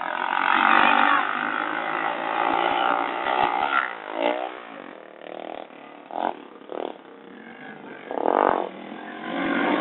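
Dirt bike engine revving in surges, its pitch rising and falling, with a clear sweep about four seconds in and louder bursts near the end.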